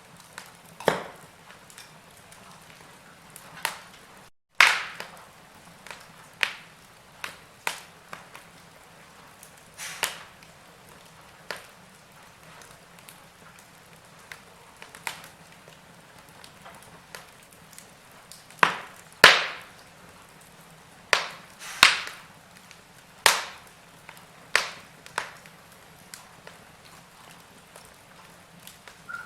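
Wood fire crackling: sharp pops and snaps at irregular intervals over a faint steady hiss, with a run of louder pops about two-thirds of the way through. The sound cuts out for a split second a few seconds in.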